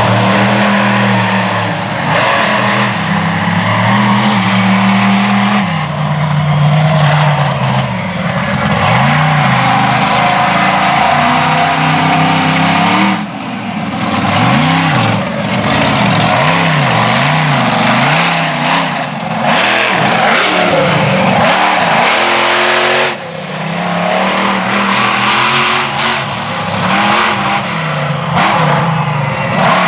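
Monster truck engine revving hard through a freestyle run, its pitch climbing and falling over and over as the throttle is worked, with brief lifts off the throttle about halfway and again about two-thirds through.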